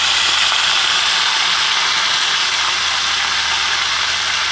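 Raw squid pieces sizzling loudly in hot oil in a wok, just added on top of fried garlic and shallots. The sizzle is steady and eases slightly near the end.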